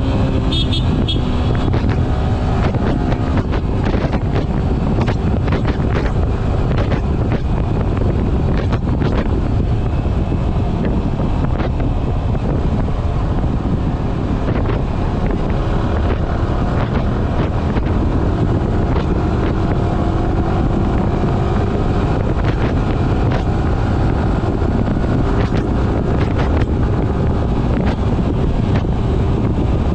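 Yamaha R15 V3's single-cylinder engine running under way, its pitch rising and falling with the revs, under heavy wind noise on the microphone.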